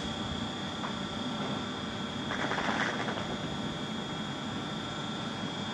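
Electric passenger train pulling out of the station, a steady hum and rumble over a constant high whine, briefly louder about two and a half seconds in.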